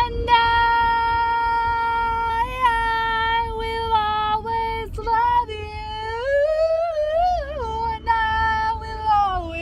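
A girl's voice singing long, held high notes that slide between pitches, without accompaniment, over a low rumble.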